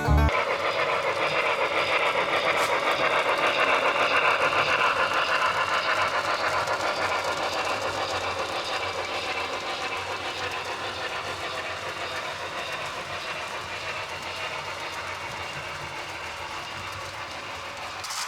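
Model train running along the layout's track, a steady rolling and clattering noise that grows gradually fainter over the last part.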